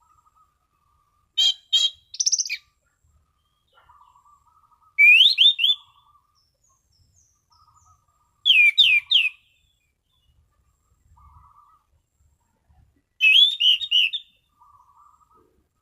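Anis cendana (orange-sided thrush) singing in clear, loud 'ngeplong' style: four short phrases a few seconds apart, each a quick run of rising whistled notes.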